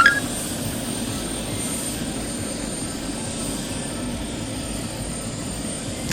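Steady whooshing helicopter engine noise, with a short high chirp right at the start.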